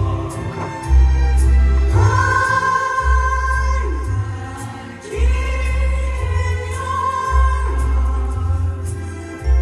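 Music: a group of voices singing long held notes over an accompaniment with a bass line that steps to a new note every second or two.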